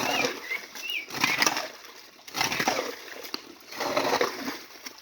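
Water splashing in repeated strokes, about four of them, each a short rushing whoosh.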